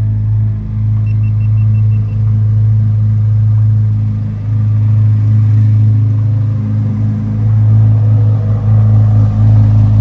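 Chevrolet Corvette C8 Z06's 5.5-litre flat-plane-crank V8 idling steadily with a deep, even rumble.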